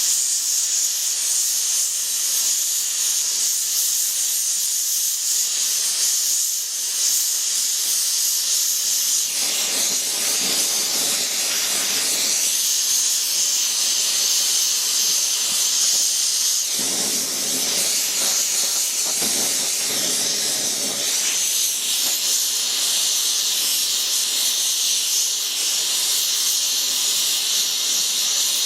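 Oxy-fuel torch flame hissing steadily while brazing with brass rod. The hiss fills out and deepens for a few seconds about a third of the way in and again past the middle.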